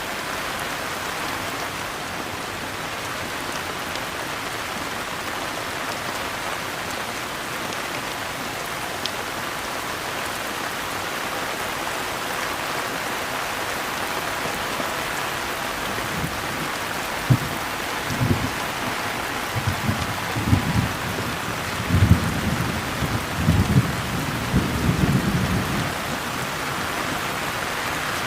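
Steady, even rain falling, with a low rumble of thunder rolling in irregular surges over several seconds about two-thirds of the way through.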